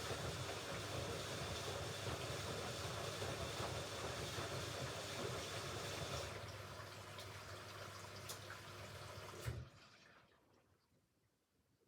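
Hoover Ecologic Computer Washer 1300 washing machine running on its rinse and spin programme, a steady noise with a low hum. It drops in level about six seconds in, then cuts off with a sharp click a couple of seconds before the end.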